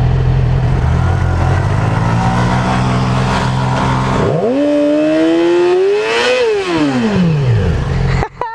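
Motorcycle engine running steadily at low revs, then about four seconds in it revs up, its pitch rising for about two seconds before falling back over the next second and a half.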